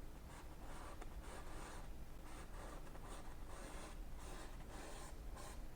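Faint scratchy strokes of a filbert brush loaded with oil paint being worked across a stretched canvas, a series of short strokes about two a second.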